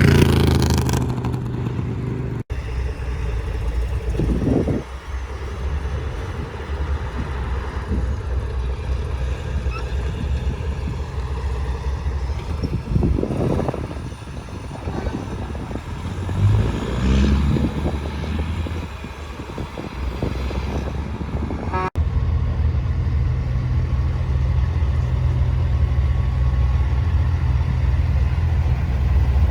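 Truck engines running, low and steady. The sound changes abruptly twice, and a few louder swells pass in the middle.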